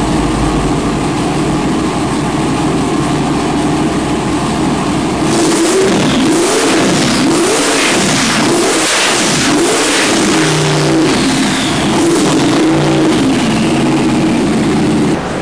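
Twin-turbocharged 632 cubic inch big-block Chevy V8, running open through 5-inch exhaust pipes. It runs steadily for about five seconds, then is blipped up and back down about once a second, several times over.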